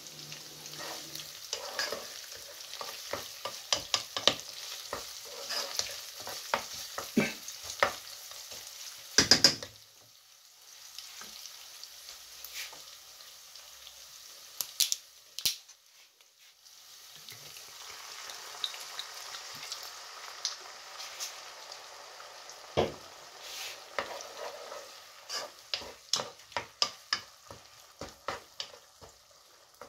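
Crumbled fresh sausage sizzling as it fries in a nonstick pot, while a wooden spoon stirs it, scraping and knocking against the pot. The sizzle dies down around ten seconds in and picks up again from about seventeen seconds, once liquid from a bottle has gone into the pot. There are sharp knocks near nine and twenty-three seconds.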